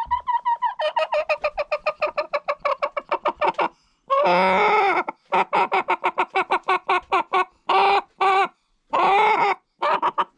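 A hen cackling in runs of rapid clucks, about eight a second, broken by longer, harsher drawn-out squawks: one about four seconds in and a few more near the end.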